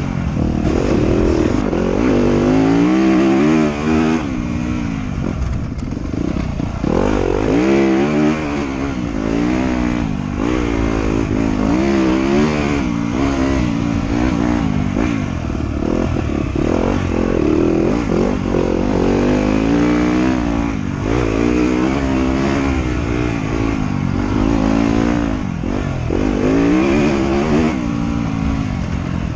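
Motorcycle engine running under constantly changing throttle, its pitch rising and falling every second or two as it revs up and eases off while riding the trail.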